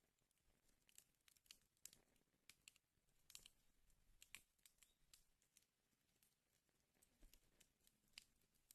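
Wood fire crackling in a fireplace: faint, irregular sharp pops and snaps, several a second at times.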